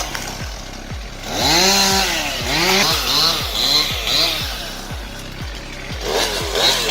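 Chainsaw engine revving up and back down again and again in quick throttle blips, over background music with a steady beat.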